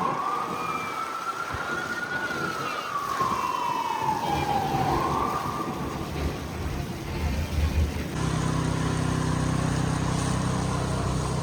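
Emergency vehicle siren in a slow wail, rising and then falling in pitch over several seconds and fading out about six seconds in. About eight seconds in, the sound switches abruptly to a steady low engine hum.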